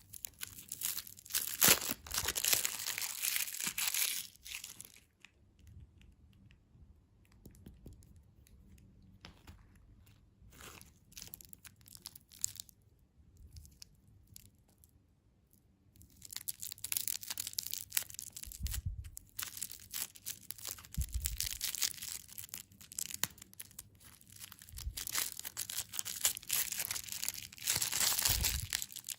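Candy wrappers crinkling and being torn open, with crunchy crackles: a dense stretch for the first four seconds, only sparse faint crackles until about sixteen seconds in, then dense crinkling again to the end.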